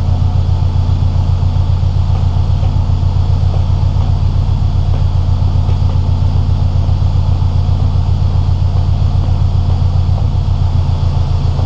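2005 Subaru Impreza WRX STI's turbocharged 2.5-litre flat-four engine idling steadily, with an even, quick throb.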